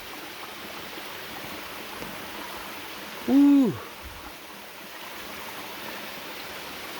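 Steady rush of water from a small waterfall and creek, with a man's short "woo" about three seconds in that rises slightly then falls away.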